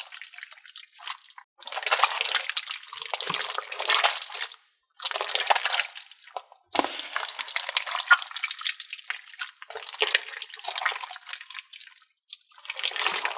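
A big mass of mixed slime and putty being squished and kneaded by hand, giving wet, sticky squelches full of little crackling pops. It comes in several bursts a second or two long, with short pauses between them.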